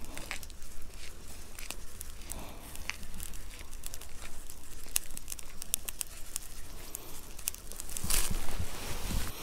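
Fish frying, crackling with many scattered sharp pops, and a louder rustling swell about eight seconds in.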